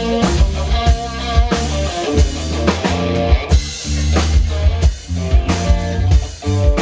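Rock band playing: a drum kit with steady kick and snare hits over a prominent bass guitar line, with guitar on top.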